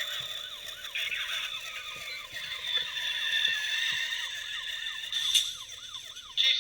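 Electronic police siren from the model squad car's sound unit, a fast yelp rising and falling about three times a second. A sharp click comes near the end.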